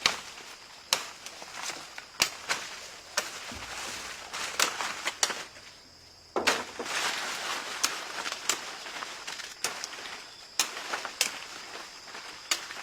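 Chopping with a hand blade on wood: sharp strikes come irregularly, roughly one a second, with rustling and swishing between them, and there is a brief pause about six seconds in.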